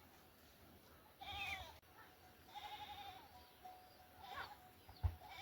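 Goats bleating, three calls, one of them long and wavering, with a short thump near the end.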